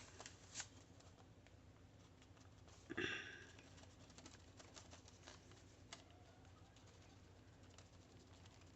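Quiet desktop craft handling: faint light taps and small contact sounds, with one brief louder scuff about three seconds in, as walnut stain is dabbed onto journal paper.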